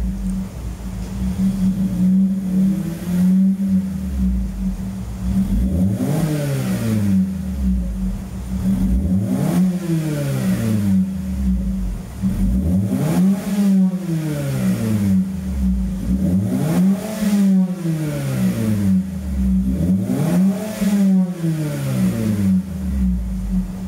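2017 Mazda3 2.0's four-cylinder engine revved up and let back down about five times, every three to four seconds, heard through an aftermarket mid pipe and single-can muffler with left and right outlets.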